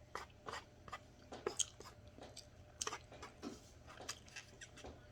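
A person chewing food with the mouth partly open: faint, irregular wet smacks and clicks, about two or three a second.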